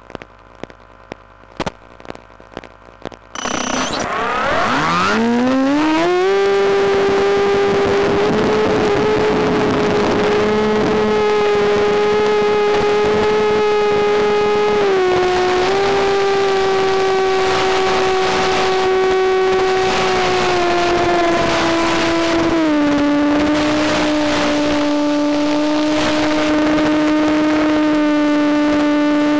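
A few clicks and knocks, then the electric motor and propeller of a Penguin FPV model plane spin up with a rising whine to full throttle and run steadily, stepping down in pitch a few times as the throttle is eased back.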